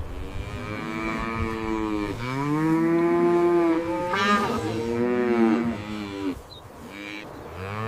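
Cattle mooing: a run of long, drawn-out moos one after another, with a short pause near the end before the calls resume.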